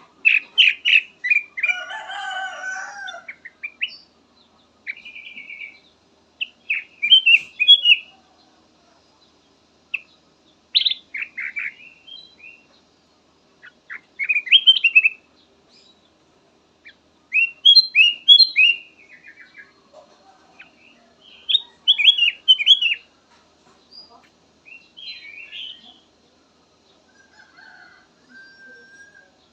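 Kutilang emas bulbul singing: short phrases of quick, falling whistled notes repeated every few seconds. A longer, lower call comes about two seconds in.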